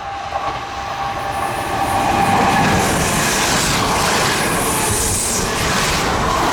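Kintetsu electric train approaching and passing at speed. The noise grows over the first two seconds, with a thin steady tone at first, then holds as a loud, even rush of wheels on rail.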